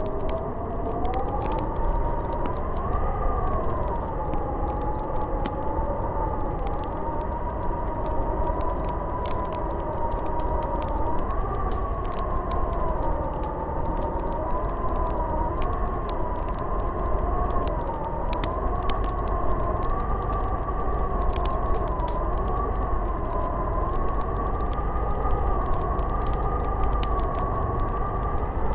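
Snowstorm wind howling: a wavering whistle that slowly rises and falls in pitch over a steady low rumble, with scattered faint ticks.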